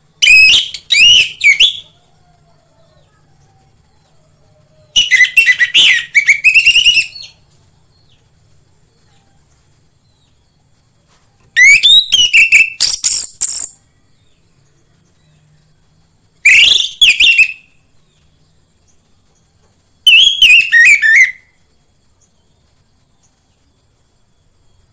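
Orange-headed thrush singing: five loud phrases of rapid, gliding whistled notes, each one to two seconds long, separated by pauses of several seconds, over a steady faint high hiss.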